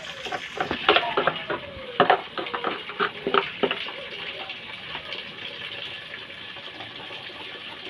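A quick series of clinks and knocks for the first few seconds, then a steady hiss of running water.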